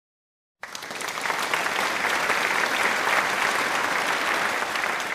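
Audience applauding, a dense steady clatter of many hands that starts abruptly about half a second in after a moment of total silence.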